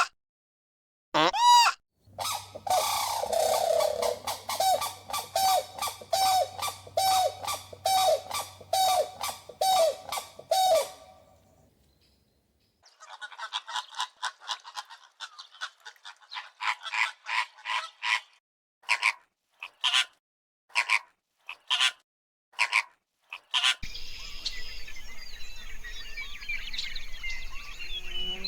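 Bird calling loudly and repeatedly in quick succession, then a run of shorter, higher calls. Near the end this gives way to a steady outdoor background with faint birdsong.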